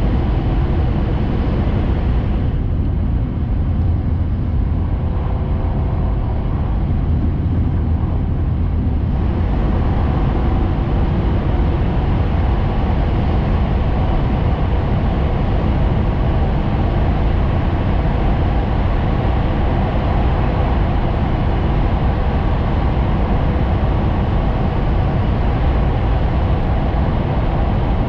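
Shinkansen train running at speed, heard from inside the passenger cabin: a steady low rumble with hiss above it. The hiss drops away for several seconds about two and a half seconds in, then comes back.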